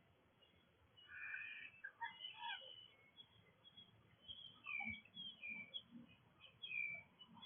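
Faint wild bird calls: a cluster of calls about a second in, then a series of short, high calls in the second half.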